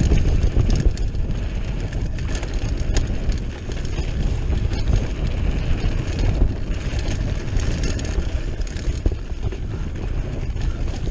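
Wind buffeting a chest-mounted action camera's microphone, over the rumble of mountain-bike tyres on a dirt trail. Scattered sharp clicks and rattles from the bike's frame and drivetrain run through it as it rides over the ground.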